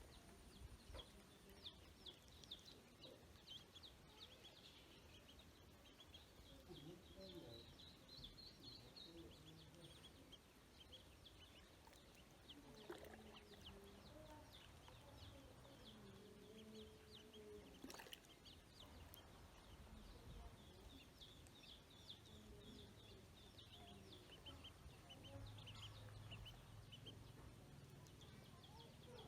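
Ducklings peeping: a faint, steady chatter of many short, high chirps, with a few lower animal calls in the middle.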